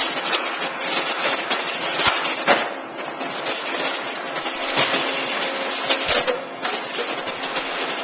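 Steady rushing air hiss of a vacuum tube lifter's suction, with a few sharp knocks of metal workpieces being picked up and set down.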